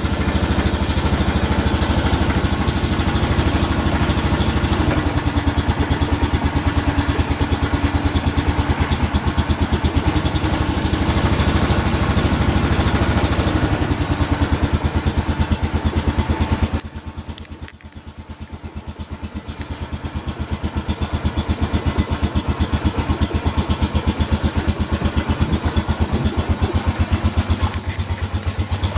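2008 Honda Foreman ATV's single-cylinder engine idling steadily just after a cold start, firing in an even pulse. Partway through, the sound falls much quieter for a few seconds, then comes back up.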